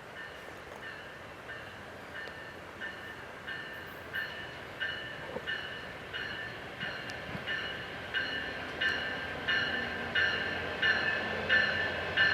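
A bell striking steadily, about one and a half times a second, growing louder as a train approaches, with a low rumble of the train coming in near the end.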